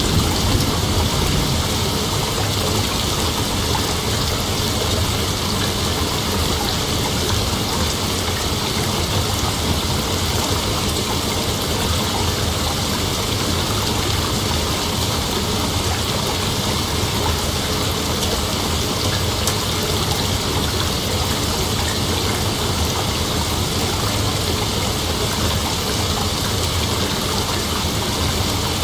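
Steady rain hiss, with the tail of a low thunder rumble dying away in the first second.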